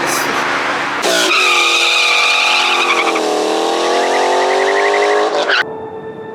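A car leaving hard, its engine revving at high rpm with tire noise, as in a burnout or hard launch. The engine pitch dips about three seconds in and climbs again, and the sound cuts off abruptly near the end.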